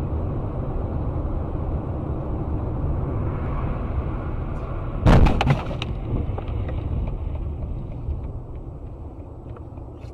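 Steady road and engine rumble of a moving car, with one loud crash bang of a collision about five seconds in. The rumble carries on after it and grows fainter toward the end.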